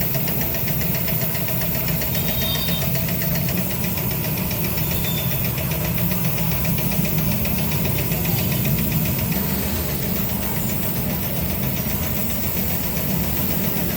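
A motor-driven machine running steadily with a fast, even knocking rhythm.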